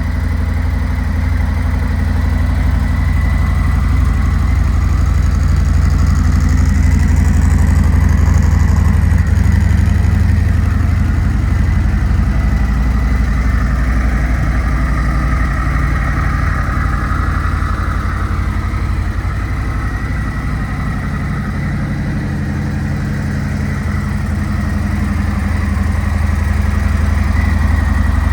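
Harley-Davidson Road Glide 3's 117 cubic-inch Milwaukee-Eight V-twin idling steadily.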